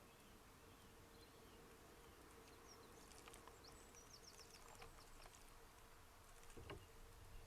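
Faint outdoor ambience with distant small birds calling: a quick run of short, high chirps about three seconds in, over a faint steady hum.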